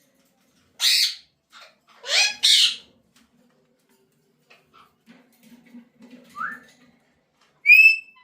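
Pet parrot squawking: one harsh squawk about a second in, two more back to back around two and a half seconds, a short rising chirp after six seconds, and a loud shrill call near the end.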